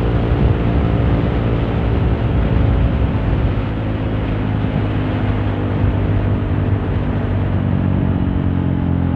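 Honda CRF150L's single-cylinder four-stroke engine running through a Norifumi Torc aftermarket exhaust, heard from inside the rider's helmet. It holds a fairly steady note, easing off slightly about four seconds in.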